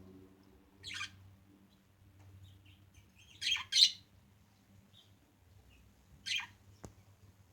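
Budgerigars giving short, harsh chirps: one about a second in, a loud pair close together near the middle, and another past six seconds, with faint softer chirps in between. A single sharp click comes near the end.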